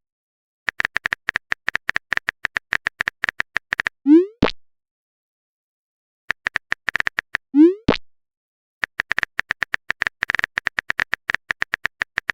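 Phone-keyboard typing clicks in quick runs, each run ended by a short rising 'bloop' of a chat message being sent. This happens twice, and a third run of typing fills the end.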